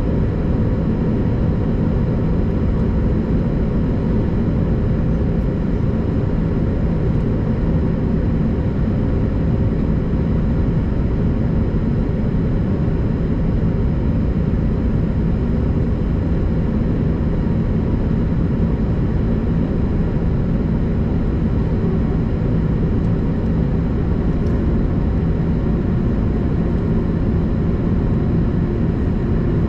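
Airbus A330-200 airliner's jet engines and airflow making a steady, even drone, with a few faint steady tones above it.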